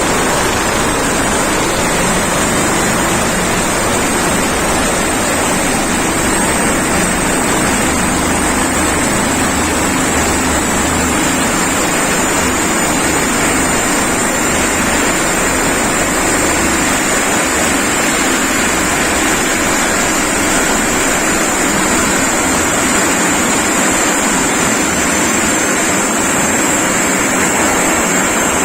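Rescue helicopter running close by: a loud, steady rush of rotor and turbine noise with a high turbine whine that drops slightly in pitch near the end.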